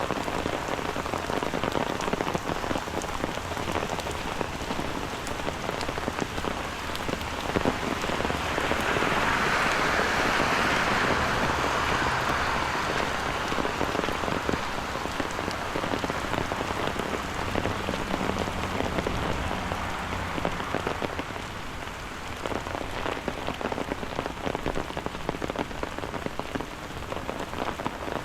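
Steady rain falling, with many small drop ticks over a constant hiss. A louder swell of hiss builds and fades about ten seconds in.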